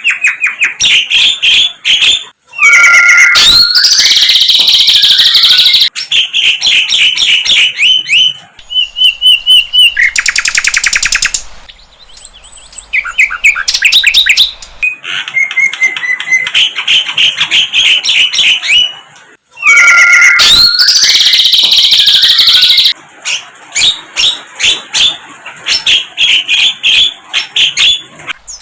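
Sikatan londo flycatcher singing loudly: a rapid, varied run of chirps, trills and high whistles with short pauses. The same song sequence comes around again after about 18 seconds.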